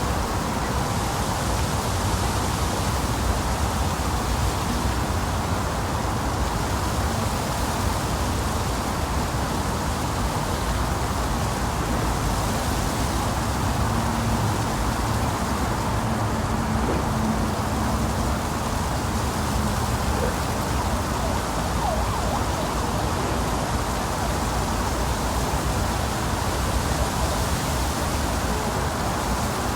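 Steady rushing outdoor ambience: an even, unbroken noise, strongest in the low range, with a faint low hum about halfway through.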